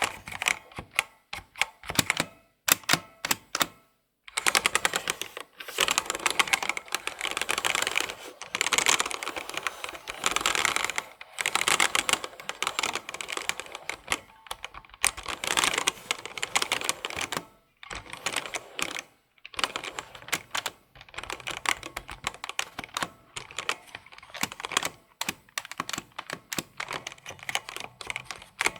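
Fast typing on a computer keyboard: dense runs of key clicks broken by a few brief pauses.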